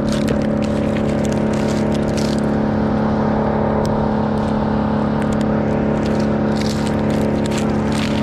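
An engine running steadily at a constant speed, with scattered crackling and scraping over it.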